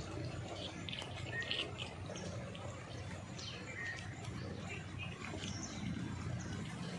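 Small birds chirping in short, scattered calls, some quick falling notes, over a low steady rumble.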